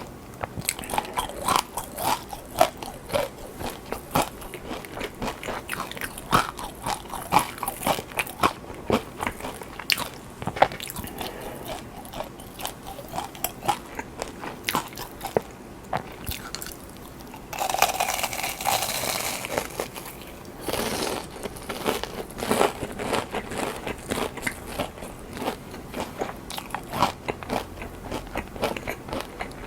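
Close-miked eating sounds: crunchy bites and chewing with many sharp crackles. A denser, hissier stretch of about three seconds comes a little past the middle.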